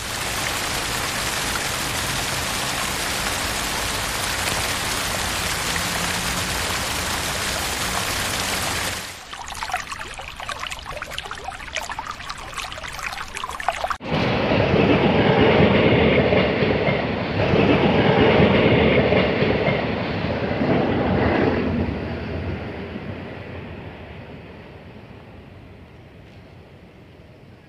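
Floodwater pouring down a roadside like a waterfall: a steady loud rushing hiss that drops off about nine seconds in. About fourteen seconds in the sound changes suddenly to a louder, deeper rushing sound that swells twice and then fades away over the last several seconds.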